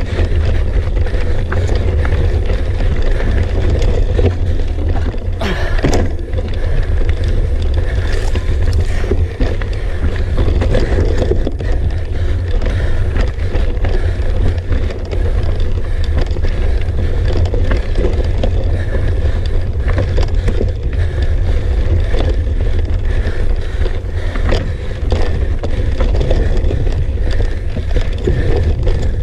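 Mountain bike ridden up a rocky technical trail: a steady low rumble of vibration and wind on the bike-mounted camera's microphone, with scattered clicks and knocks from the tyres and frame over the rocks.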